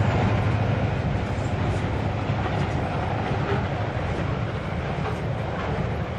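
Freight train's covered hopper wagons rolling past on steel wheels, a steady rumble of wheels on rail. The sound slowly gets quieter as the locomotives pull away.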